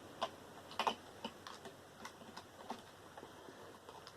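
Scattered light clicks and taps at an uneven pace, a pair of slightly louder ones about a second in: small parts and tools being handled while a Sony VAIO desktop computer tower is taken apart.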